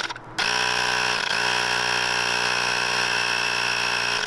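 Small motor running steadily at a high, even speed. It stops for a moment just after the start, then picks up again with a brief dip in pitch and holds steady until it cuts off abruptly.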